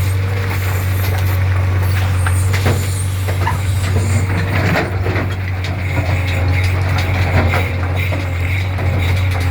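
JCB backhoe loader's diesel engine running steadily, with scattered knocks and clanks over it.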